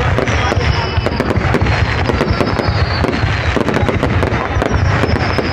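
A loud, continuous, rapid crackle of sharp pops, with faint falling whistles near the start and again near the end.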